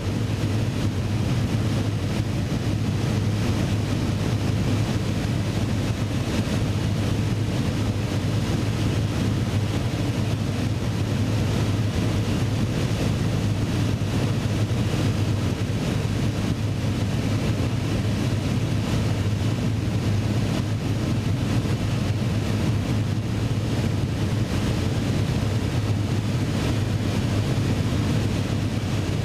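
Propeller aircraft engine droning steadily in flight, mixed with a constant rush of wind noise.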